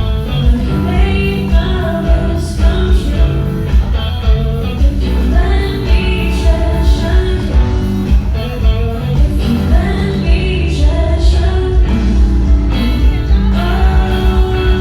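Loud live band music with a singer, a steady heavy bass beat and guitar, heard from behind the stage.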